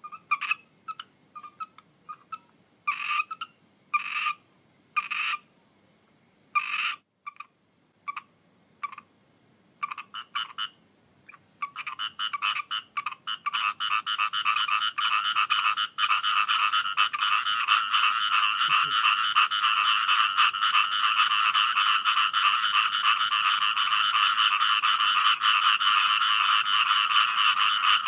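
Frogs croaking: separate, scattered calls at first, which thicken about halfway into a dense, unbroken chorus.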